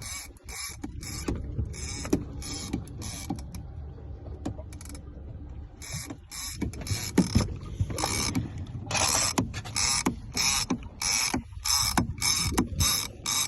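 Irregular mechanical clicks and creaks in short bursts, growing louder and more frequent about six seconds in.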